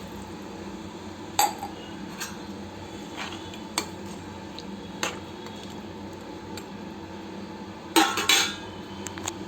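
A metal spoon clinking and scraping against a cooking pot as the chicken gravy is stirred after water is added. A few scattered clinks give way to a louder cluster of clanks about eight seconds in.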